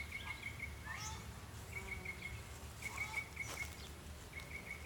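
Birds chirping outdoors: short, rapid trills at one high pitch, repeated four or five times, with a few lower calls in between.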